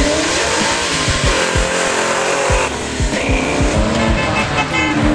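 Car engines accelerating hard past on the road, the pitch climbing, dropping briefly about two and a half seconds in, then climbing again. Music with a steady beat plays underneath.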